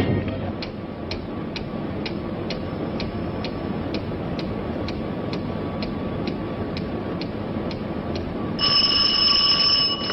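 A clock ticking steadily, about two and a half ticks a second, over a constant low hum. About eight and a half seconds in, a telephone bell rings for over a second.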